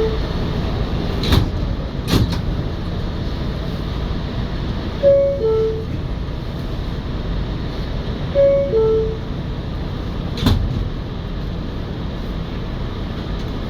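R211A subway car door-closing chime, a two-note falling tone, sounding at the start, about five seconds in and again about eight and a half seconds in, over the steady hum of the car. A few sharp knocks sound between the chimes.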